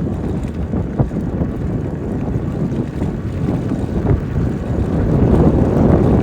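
Wind buffeting the microphone of a moving e-bike rider, a steady low rush that grows louder near the end, with a couple of small knocks from the bike.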